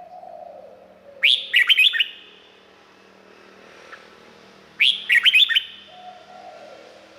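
Red-whiskered bulbul singing: two short, loud phrases of quick whistled notes, about three and a half seconds apart. A quieter, lower falling note comes at the start and again near the end.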